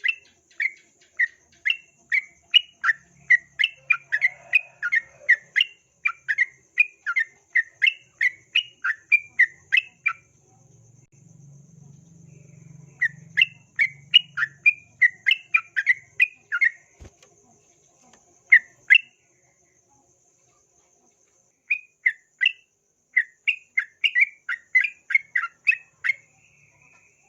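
Yellow-vented bulbul (trucukan) calling in quick runs of short, sharp chattering notes, about three a second, in several bursts separated by pauses of a few seconds. A faint steady high insect trill runs underneath.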